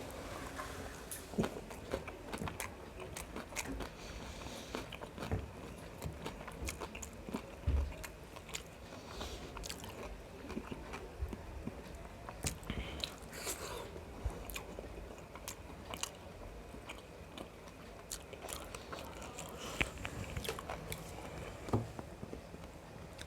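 Close-miked chewing and mouth sounds of a person eating biryani with mutton gravy: many irregular wet smacks and clicks, with no talking.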